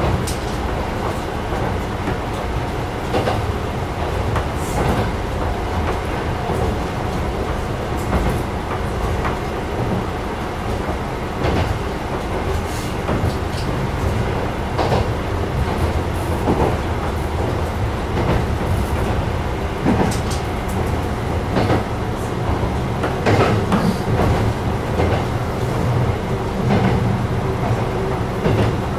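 A diesel railcar running along the line, heard from inside the car: a steady engine and running noise with irregular clicks and knocks as the wheels pass over the rail joints.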